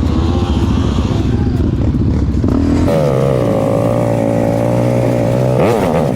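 Off-road vehicle engines running: a dense low rumble for about three seconds, then one engine's steady hum takes over and is revved once near the end, rising and falling quickly.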